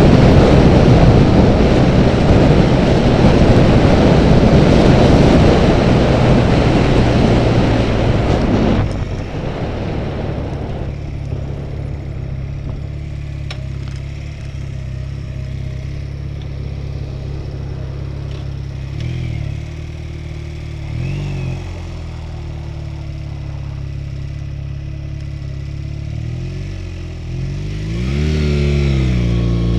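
Honda Rebel motorcycle engine under heavy wind rush on the camera housing. The rush cuts off abruptly about nine seconds in, leaving the engine running steadily at low revs. The throttle is blipped briefly twice, then the engine revs up near the end.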